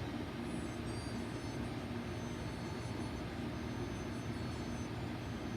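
Steady low background hum with an even hiss, and faint thin high-pitched tones above it.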